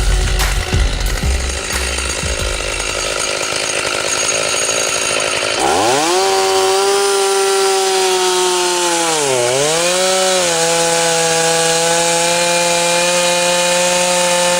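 Music with a low beat over the first few seconds, then a two-stroke chainsaw is throttled up about six seconds in and runs at high revs. Its pitch dips once briefly and recovers before it drops back near the end.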